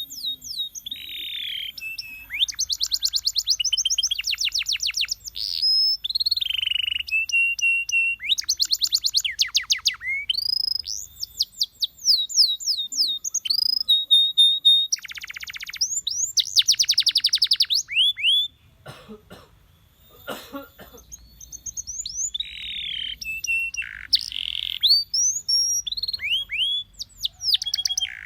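Domestic canary singing a long song of fast trills and rolls, each a run of rapidly repeated notes or quick sweeping whistles, with a brief pause about two-thirds of the way through before the song resumes.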